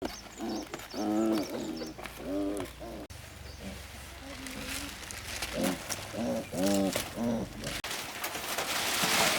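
Animal calls: groups of short, arching pitched calls, with high chirps in the first second or so. The sound changes abruptly at about three and eight seconds.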